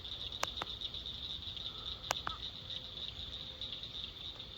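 Steady high-pitched evening chorus of calling animals, such as crickets or frogs, with a few faint clicks and a low rumble underneath.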